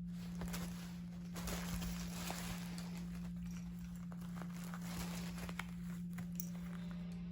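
A cat batting at and pouncing on a toy bird: scattered rustling, crinkling and light taps, over a steady low hum.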